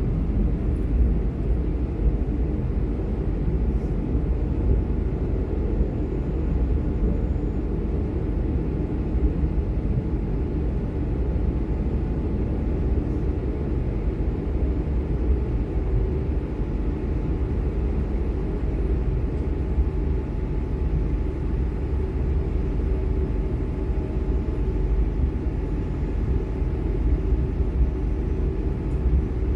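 Cabin noise inside an Airbus A220-100 climbing out after takeoff: the steady low rumble of its Pratt & Whitney PW1500G geared turbofans and the airflow, with a faint steady whine on top.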